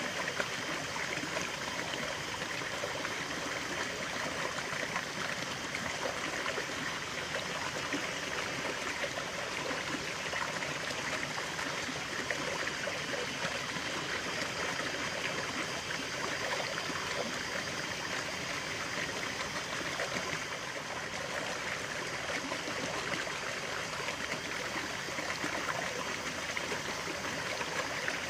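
Running water in a stream, a steady rush with fine trickling and splashing detail that does not let up.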